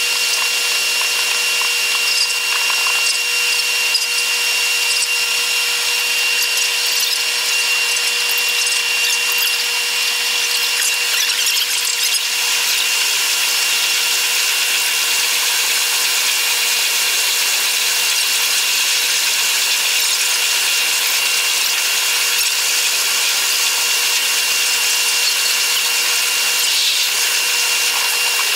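Running noise of a Taiwan Railways EMU100 electric train, sped up eight times: a steady high whine over a hiss, with no break or change in level.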